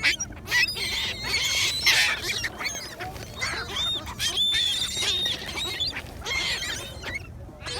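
A flock of gulls calling, many cries overlapping.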